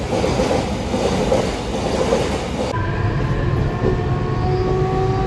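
Passenger train running with a steady rumble. After a cut about three seconds in, several long tones slowly fall in pitch over the rumble.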